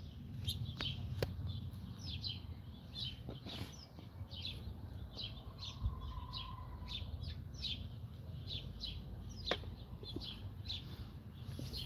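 Small birds chirping: a run of short, high, falling chirps, about two a second, over a low steady rumble.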